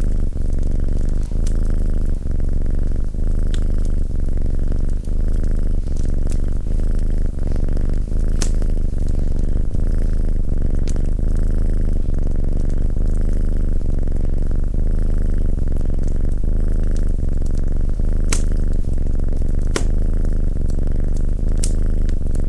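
Domestic cat purring close up, a loud, steady pulsing rumble, with the sharp crackles of a wood fire popping now and then.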